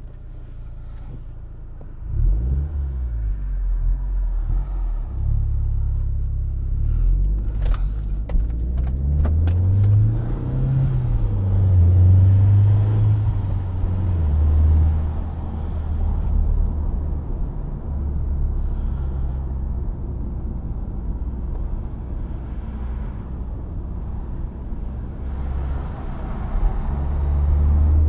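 Audi A4 B7 2.0 TFSI turbocharged four-cylinder petrol engine with a Stage 1 remap, heard from inside the cabin pulling away about two seconds in. The revs climb and drop back at gear changes, then it cruises with a low road rumble, and the revs rise again near the end.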